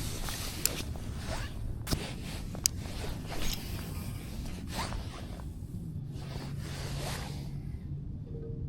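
Fishing rod and spinning reel being handled from a kayak: a few sharp clicks in the first three seconds and short swishing rustles, with a low steady hum coming in about six seconds in.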